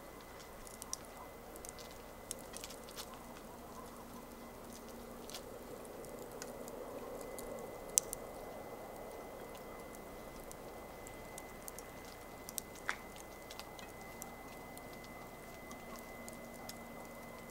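Wood campfire crackling: irregular small snaps and pops over a soft hiss, with a sharper pop about eight seconds in.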